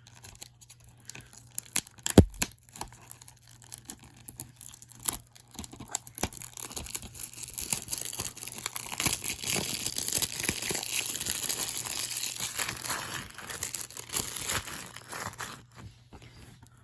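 Plastic wrapping on a new DVD case being torn and crinkled off by hand, a long stretch of crinkling in the middle. A loud click about two seconds in.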